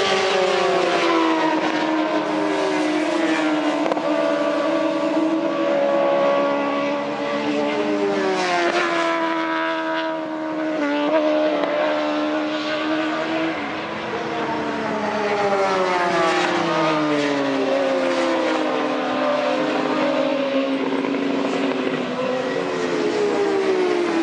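Two 1000 cc inline-four superbikes racing close together at high revs. The engine pitch sweeps down and climbs back up again and again as they shift, brake and accelerate through the corners.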